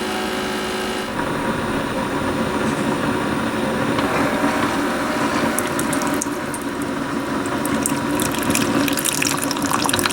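A steady mechanical hum stops about a second in, and water runs and splashes, with crackling spatter growing toward the end.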